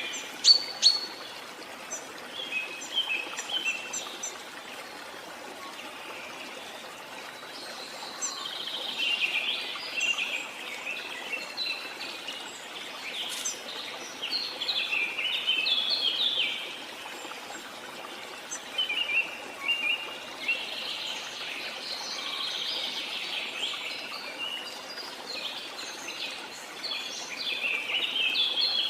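Birds chirping and calling in clusters of quick notes, coming and going over a steady rush of water from a jungle waterfall.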